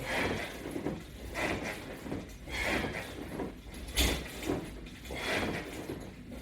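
Sit-up repetitions against resistance straps: a short breathy, rustling burst with each rep, about one every 1.3 seconds, and a sharper knock about four seconds in.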